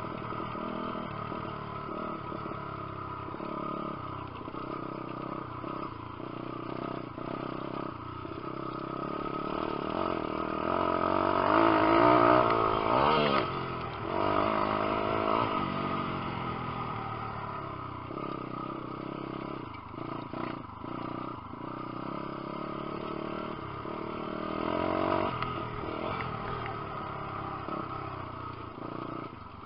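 150cc four-stroke pit bike engine running under riding load, revving up and easing off again and again, loudest about twelve seconds in.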